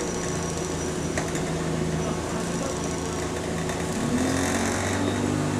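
Bus diesel engine running, heard from on board the bus, its pitch rising about four seconds in as the bus accelerates. A thin high whistle sounds over the engine for the first few seconds.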